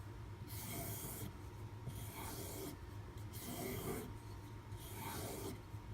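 Knife blade being stropped on a leather strop loaded with white compound: a series of slow, even scraping strokes, about one a second, as the edge is drawn across the leather to refine it after sharpening.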